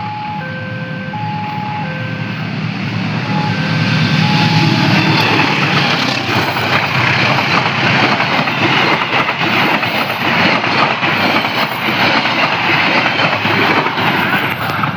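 Indonesian passenger train KA 175 Menoreh passing, its rumble and wheel-on-rail noise swelling about three seconds in and staying loud. A repeating two-note chime fades out in the first few seconds.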